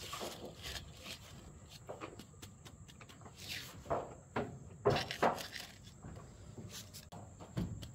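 Scattered knocks and scuffs at irregular intervals, a few louder ones about four and five seconds in, over a faint steady high-pitched tone.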